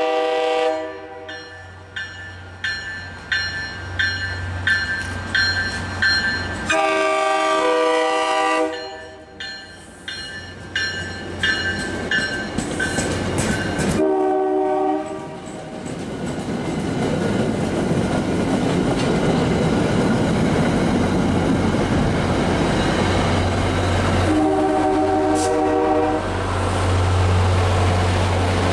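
MBTA commuter train sounding its multi-chime horn for a grade crossing: four blasts, the third short. A crossing bell rings about once a second through the first half. From about halfway the diesel locomotive and cars pass close by, with a steady low engine rumble and wheel noise.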